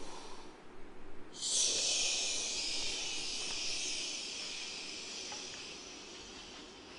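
A high hissing sound that starts suddenly about a second in and slowly fades away over the next several seconds.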